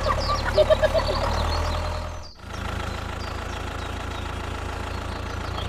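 An engine running steadily at idle, a low even hum, with a brief drop-out a little over two seconds in.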